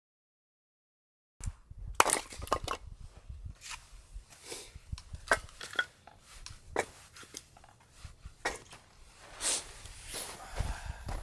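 Irregular sharp knocks, clicks and crunches over a low rumble of strong wind, starting suddenly about a second and a half in.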